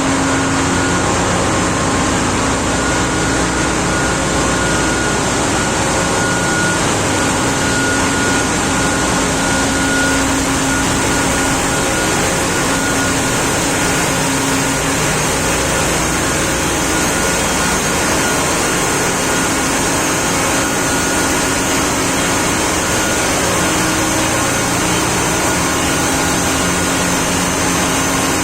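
Engine-room machinery of a very large gas carrier running: a loud, steady mechanical din with a few steady humming tones in it.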